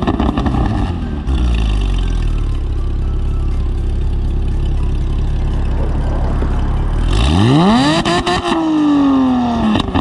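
Porsche Boxster 987S 3.4-litre flat-six with race headers and the valved exhaust open, revving free on a parked car. The revs fall back to idle at the start, it idles steadily for several seconds, then is blipped sharply up about seven seconds in and slides back down near the end.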